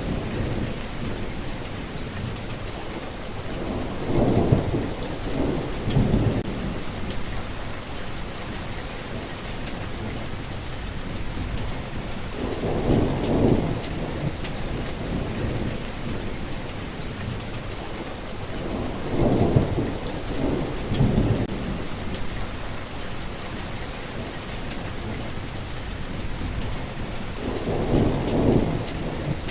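Steady heavy rain falling, with rolls of thunder rumbling up and fading four times, about every six to eight seconds.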